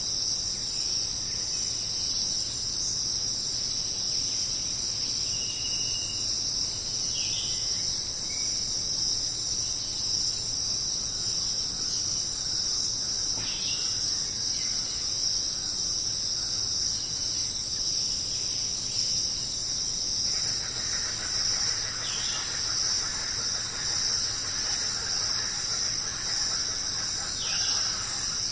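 Dense, steady, high-pitched chorus of jungle insects buzzing without pause, with a few short falling bird calls over it. About two-thirds of the way through, a fainter, lower hiss joins in.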